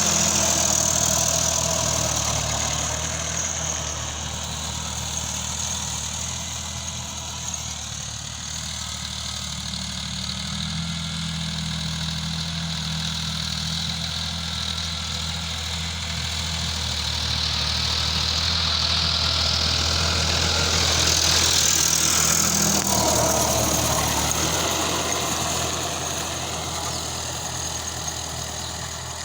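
Sonalika RX 50 tractor's diesel engine running steadily, its loudness swelling and easing slowly.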